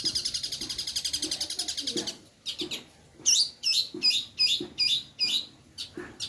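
Long-tailed shrike (cendet) singing: a fast, dense trill for about the first two seconds, then a series of loud, separate sweeping chirps at about three a second.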